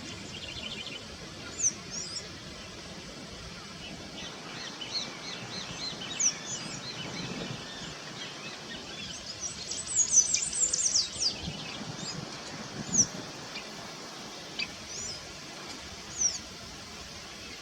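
Small birds giving short, high chirps, scattered through, with a dense flurry of them about ten seconds in, over a steady outdoor background hiss.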